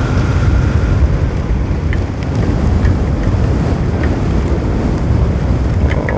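Wind buffeting the microphone during a rain shower, a steady loud rumbling rush with a few faint ticks of raindrops.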